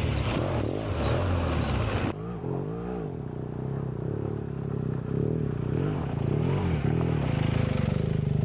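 BMW GS boxer-twin motorcycle engine pulling at low speed on a rough trail, its pitch rising and falling with short throttle blips. A rushing noise over it drops away about two seconds in.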